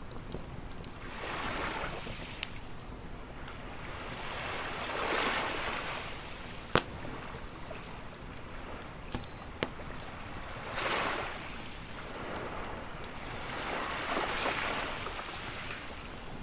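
Ocean waves washing onto a beach, swelling and receding about four times, with a few sharp pops from a crackling campfire, the loudest about halfway through.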